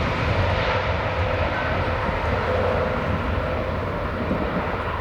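Jet engines of a departing Boeing 787 at takeoff power, a steady broad rumble with a faint whine in it that slowly fades as the aircraft climbs away.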